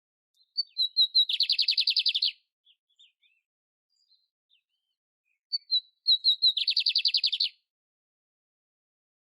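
Canary (canário império) singing two identical phrases a few seconds apart: each begins with a few short high chirps and runs into a rapid trill lasting about a second, with silence between.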